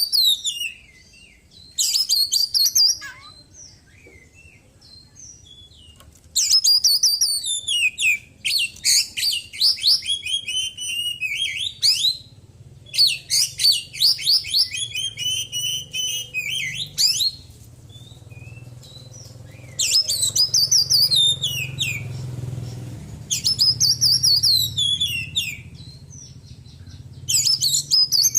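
Oriental magpie-robin (kacer) singing loud bursts of fast, trilling, chattering song, a few seconds each with short pauses, its phrases filled with mimicked calls of small birds.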